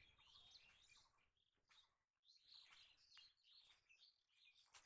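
Faint birds chirping, short scattered calls against quiet rural background.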